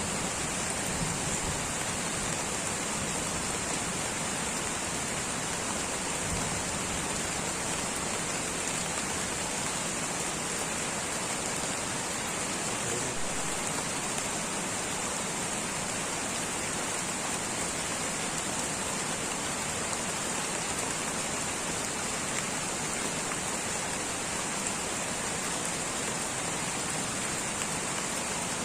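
Light rain falling steadily, an even hiss and patter with no single drops or breaks standing out, and a brighter high hiss riding on top throughout.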